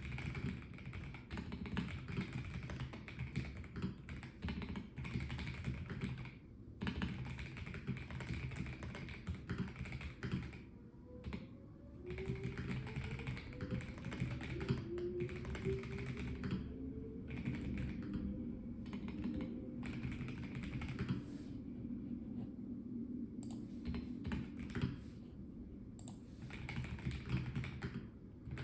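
Typing on a Melgeek Mojo84 plastic-case mechanical keyboard: a fast, continuous patter of key clicks, broken by short pauses every few seconds.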